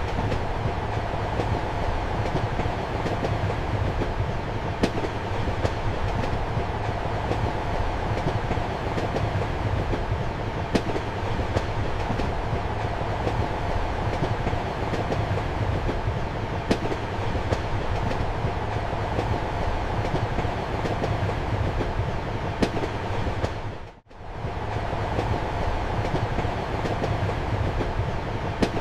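Passenger train running, heard from inside a compartment: a steady rumble and rolling noise with sharp wheel clicks over the rail joints every second or two. The sound drops out for a moment about three quarters of the way through, then comes back.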